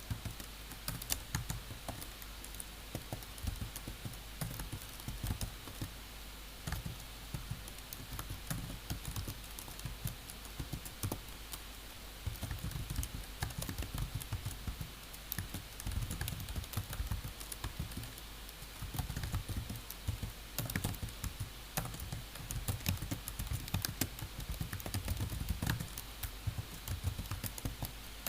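Typing on a computer keyboard: keystrokes clicking in quick, irregular runs with short pauses.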